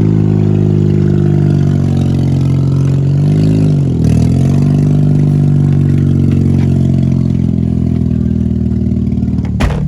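2005 Mazda RX-8's 13B rotary engine, running on open headers with no catalytic converter or muffler, pulling the car along at a steady pitch. About three to four seconds in, the engine note drops and climbs back, as at a gear change. A short sharp knock comes near the end.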